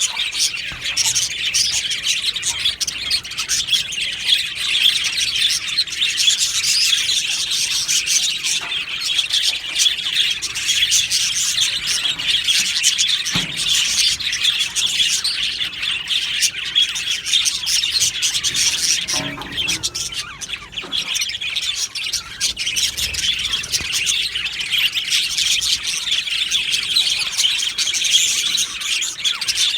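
A flock of budgerigars chirping and chattering together without a break, in dense, quick, overlapping notes, with a brief lull about twenty seconds in.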